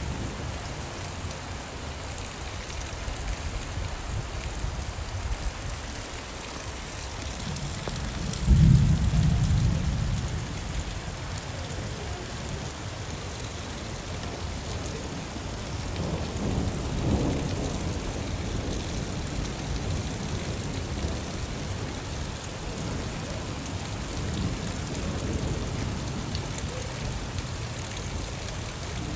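Steady rain with thunder: a loud clap about a third of the way in that rumbles away over a couple of seconds, and a softer rumble a little past halfway.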